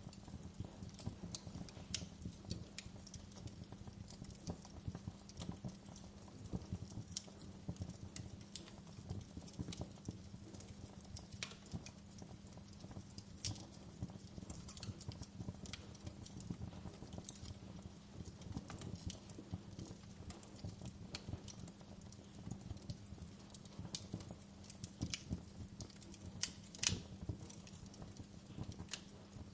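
Wood fire crackling: irregular small pops and snaps over a steady low hum, with a louder pop near the end.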